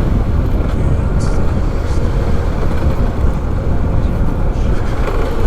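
Motorcycle riding along a road: steady, heavy wind noise on the microphone over the bike's running engine.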